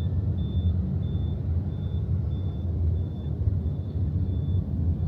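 Steady low road and engine rumble of a vehicle ride in traffic, with a high-pitched beep repeating about one and a half times a second that fades out near the end.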